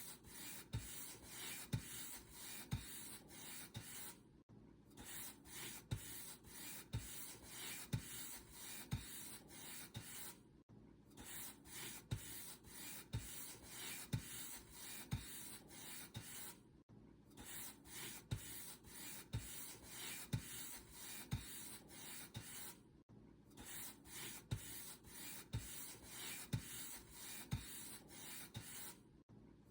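Paint brush bristles stroked back and forth over a surface, about two scratchy strokes a second, each with a soft thump as the brush meets the surface. The strokes stop briefly about every six seconds, then resume.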